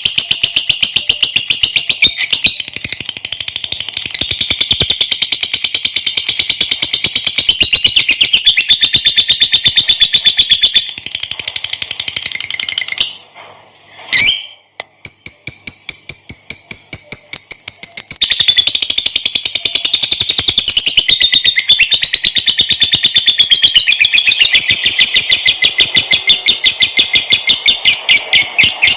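Lovebird singing a long, rapid, high-pitched chattering trill, the drawn-out 'ngekek' call, broken by one short pause about halfway through.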